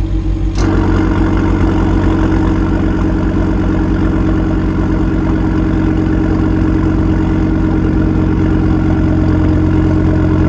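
Audi TT RS 8S's turbocharged 2.5-litre five-cylinder engine idling through a titanium valved exhaust. About half a second in there is a sharp click, and the exhaust note turns brighter and a little louder, then holds steady.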